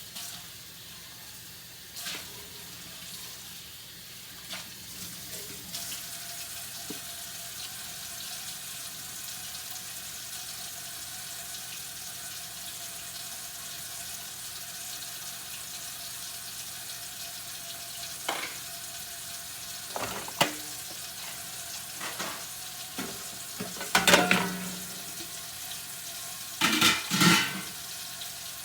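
Kitchen tap running steadily into a sink during hand dish-washing, with scattered clinks and clatters of dishes, louder clusters near the end.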